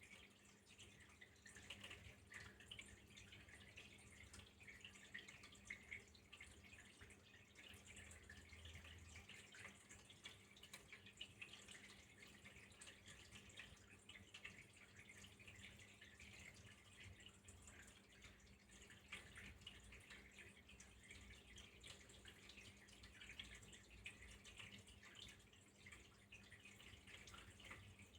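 Faint, steady trickle of flowing water with a dense patter of small drips and splashes, over a low steady hum.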